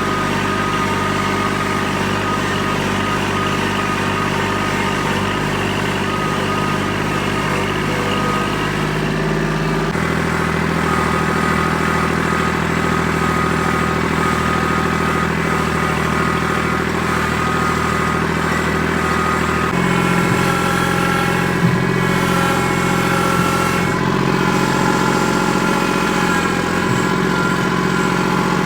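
Tractor engine running steadily, its note stepping to a different engine speed about ten seconds in and again about twenty seconds in.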